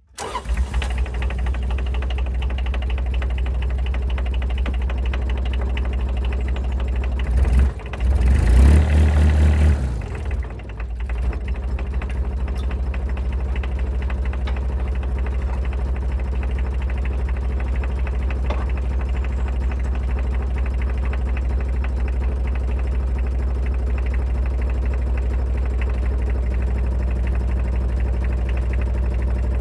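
Dumper engine starting and running steadily, revving up for a few seconds about seven seconds in, then settling back to a steady run.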